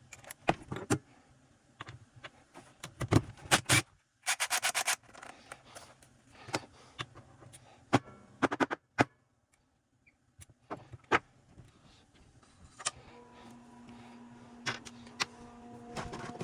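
Hand tools and metal and plastic chainsaw parts clicking, knocking and scraping during the teardown of an Echo CS-3000, with a quick run of rapid clicks about four seconds in. A steady low hum starts about thirteen seconds in.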